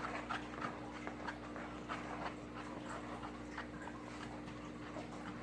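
Slime being stirred and worked, giving soft, irregular sticky clicks, over a steady low hum.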